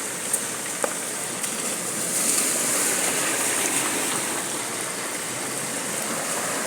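Heavy rain falling steadily, an even hiss of water, with a couple of sharp taps near the start.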